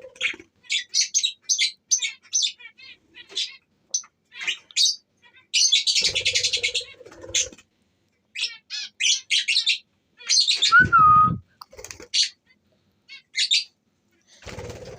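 Budgerigars chattering in quick, short high chirps, with a denser, harsher squawking stretch about six seconds in and a short falling whistle about eleven seconds in.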